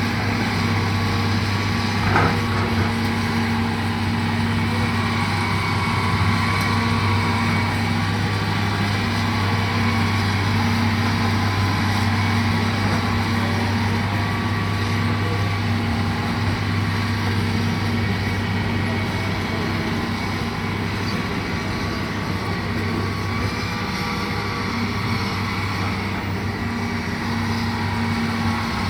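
Heavy diesel machinery engine running steadily, with a brief sharp knock about two seconds in.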